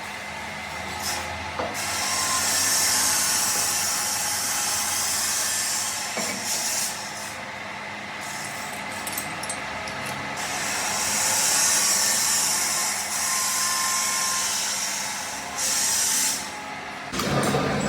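Three long bursts of hissing, the longest about five seconds and the last about one second, over a steady low hum.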